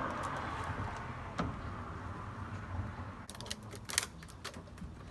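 Rubber bands being stretched and snapped onto a watermelon: one sharp snap about a second and a half in, then a quick run of clicks and snaps near the end.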